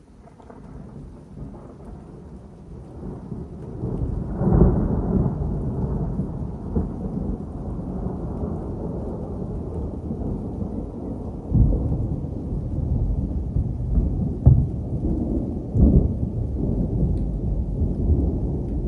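Thunder from a strong thunderstorm: a long low rumble that builds over the first few seconds and swells into louder peals about four and a half seconds in, then again around twelve, fourteen and sixteen seconds in.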